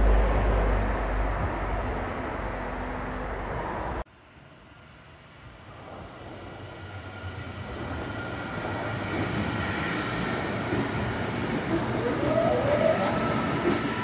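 A train rumbling past and pulling away, then, after a break about four seconds in, an electric multiple unit approaching on the line. Its running noise builds steadily with thin whining tones above it, loudest a second or two before the end.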